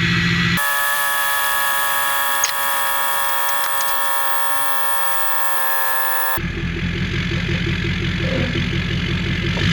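Ford 6.7 Powerstroke diesel V8 running with a 4-inch high-flow exhaust and KC turbo. Just under a second in, it cuts abruptly to a steady high-pitched whine over hiss with no engine rumble. The engine sound returns near the end.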